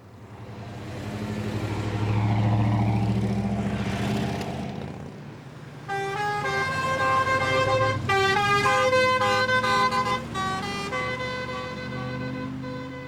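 A car accelerates past, its engine note swelling and then fading. About six seconds in, a musical car horn sounds a run of distinct notes, like a short tune.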